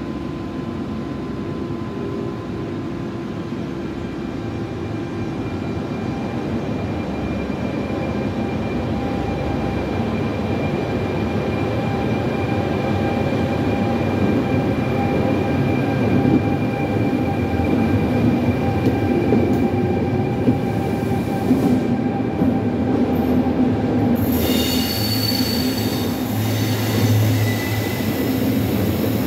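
Trenitalia E.464 electric locomotive hauling a regional train alongside the platform: a steady rumble with a thin electric whine that grows slowly louder as it comes closer. Near the end, high-pitched squealing joins in as the coaches pass.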